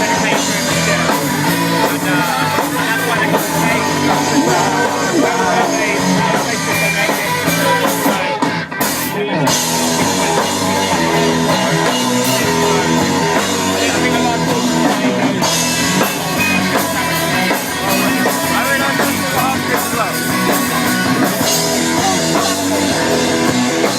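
Rock band playing, with drum kit and electric guitar, in an instrumental stretch of a song. The top end cuts out briefly about nine seconds in.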